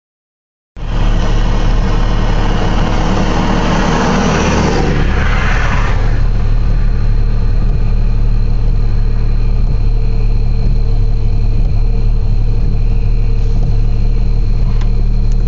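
A steady, loud low hum with a rushing hiss over it for the first few seconds, after which the hiss dies down; one faint click near the end.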